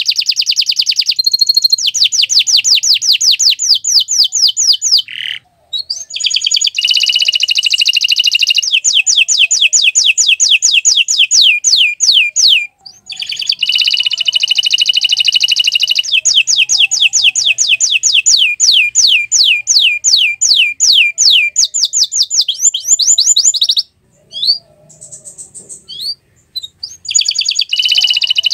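Domestic canary singing long rolling trills of fast, evenly repeated down-slurred notes, each run lasting several seconds. Short breaks come about 5 and 13 seconds in, and a longer lull with a few scattered notes comes near the end.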